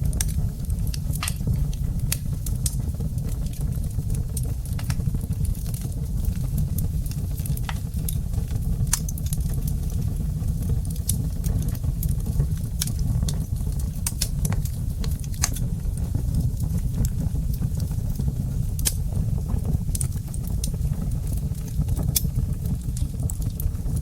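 Wood fire crackling in a fireplace: irregular sharp crackles and pops, a few clearly louder than the rest, over a steady low rumble of the burning fire.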